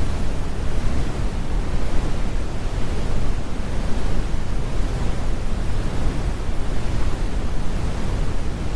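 Synthetic brown noise: a steady, even rumble, strongest in the lows and thinning toward the highs, with no tones or events.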